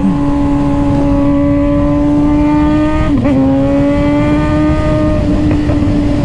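Suzuki GSX-R600's inline-four engine running at steady high revs while riding, its pitch creeping slowly upward, with a brief dip about three seconds in.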